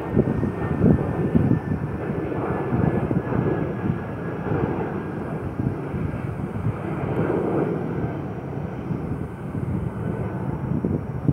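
A departing airliner's jet engines at high power, a steady low rumble with a faint high whine that slowly drops in pitch and fades.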